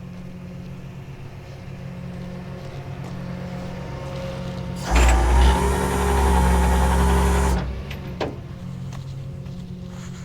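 Vehicle engine idling with a steady low hum. About five seconds in, a much louder mechanical whirring with a steady whine runs for nearly three seconds, then cuts off abruptly. A single knock follows shortly after.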